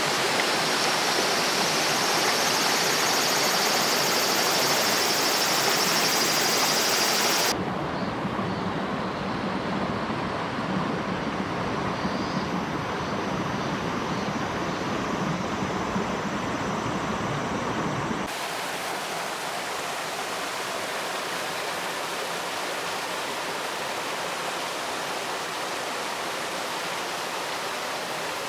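Mountain stream rushing over rocks, a steady wash of water. Its tone shifts abruptly twice, about a quarter of the way in and again past the middle, the middle stretch deeper and fuller.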